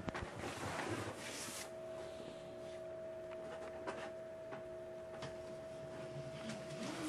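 Quiet room tone: a faint steady hum with light scattered clicks and a brief rustle about a second in.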